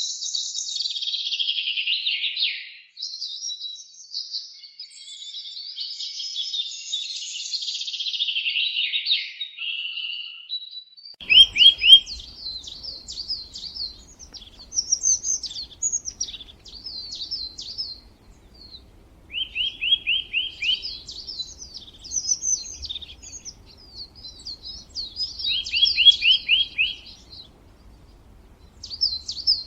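Songbirds chirping: a dense, overlapping chorus of high chirps, which changes abruptly about eleven seconds in to separate calls with short, fast trills of four or five quick notes, heard three times, over a faint low rumble.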